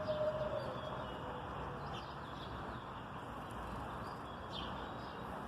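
Steady city background noise with a few short bird chirps. The falling tail of a siren dies away in the first half second.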